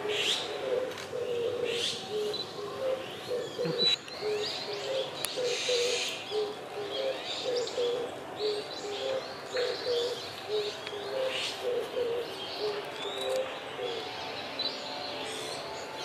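A bird's low cooing: short notes repeated steadily about twice a second, alternating between two close pitches, fading near the end. Scattered high, short bird chirps and calls sound over it.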